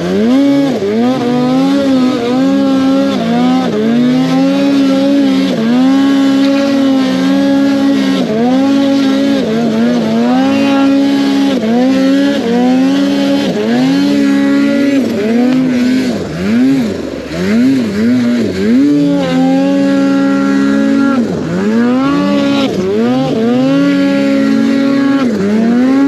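Snowmobile engine being ridden hard, revving up and down over and over, its pitch dropping and climbing back every second or two.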